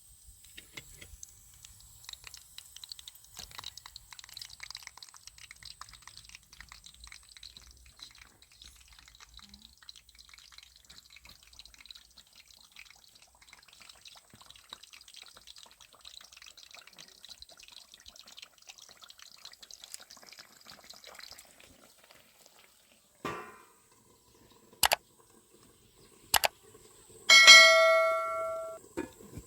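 A light, dense crackle of tiny ticks. Near the end come a few sharp knocks and then a loud metallic clang that rings on several pitches for about a second and a half.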